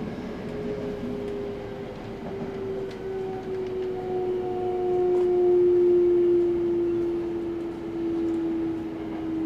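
Electric train running through a tunnel, heard from inside the passenger car: a steady rumble of wheels on rail, with a motor whine that slowly falls in pitch as the train slows.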